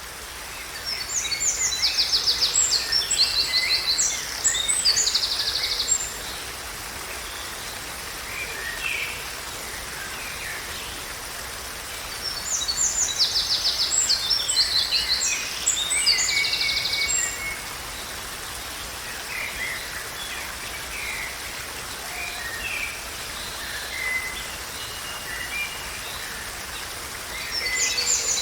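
Songbirds singing: bursts of high, rapid trills and chirps come in two main bouts about ten seconds apart, with softer scattered calls between, over a steady background hiss.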